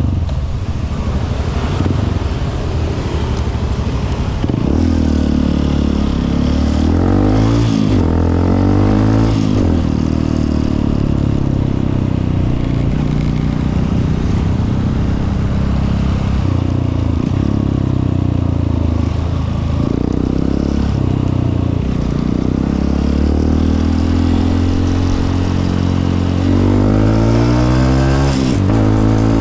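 Honda CRF150L's single-cylinder four-stroke engine running under way. It holds steady stretches of cruising, and its revs rise in sweeps about a quarter of the way in and again near the end as the bike accelerates through the gears.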